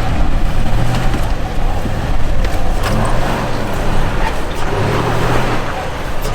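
Off-road truck engine revving in repeated surges as it climbs a rocky hill, with a few sharp knocks.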